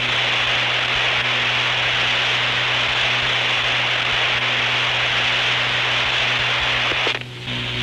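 Aircraft radio transmitter keyed with no voice getting through: a steady rush of static on the air traffic control frequency that cuts off suddenly about seven seconds in. A steady low hum runs underneath.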